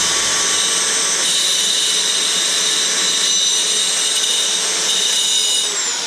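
A high-speed power tool running steadily with a whine that holds one pitch, then begins to wind down near the end.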